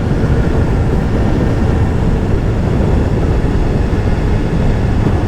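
BMW S1000RR's inline-four engine running steadily at a constant cruise, heard through a dense, steady rush of wind and road noise.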